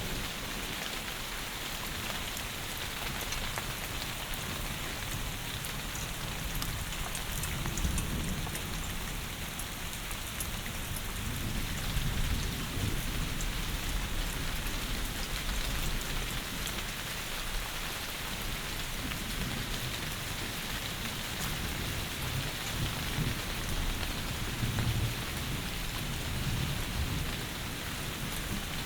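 Heavy rain pouring steadily, an even hiss, with low rumbles swelling up a few times.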